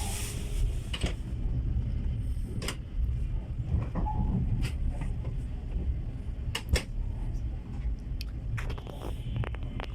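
Steady low rumble of a moving passenger train car heard from inside, with a few sharp clicks and knocks of the carriage scattered through it.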